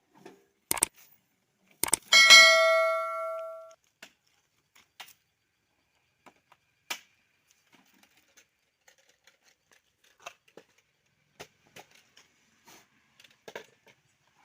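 A loud metallic clang about two seconds in that rings with a clear tone and fades over about a second and a half, after a few sharp clicks. Scattered faint clicks and knocks follow.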